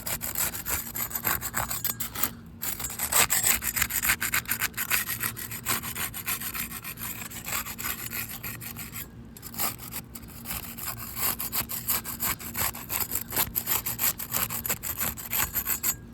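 Putty knife scraping in quick repeated strokes as it is worked between asphalt roof shingles to separate them, with two short pauses.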